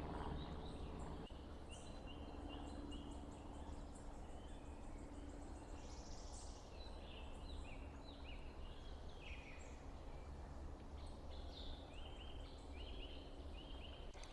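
Small birds calling, a run of short repeated high chirps that grows busier about halfway through, over a steady low rush of outdoor background noise.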